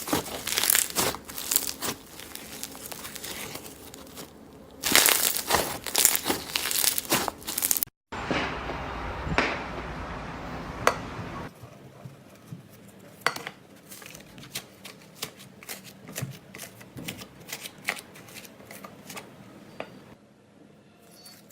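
Slime being squeezed, stretched and poked by hand, making crackling, crinkling pops. The sound is dense and loud at first, then after a sudden cut turns softer and sparser, with scattered small clicks.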